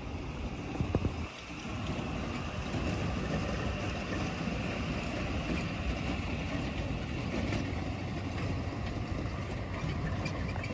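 Motor-vehicle engines running steadily, a low continuous drone, with a few short knocks about a second in.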